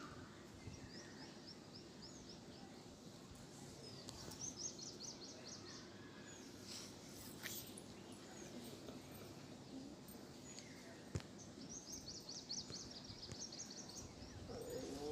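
Quiet background noise with a small bird singing fast trills of high chirps, one about four seconds in and another near the end. A single sharp click sounds about eleven seconds in.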